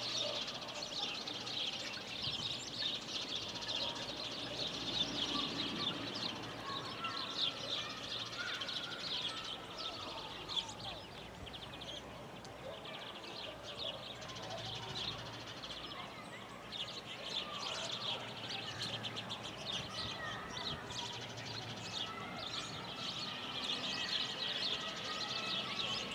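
A chorus of many small birds chirping and twittering, dense and continuous.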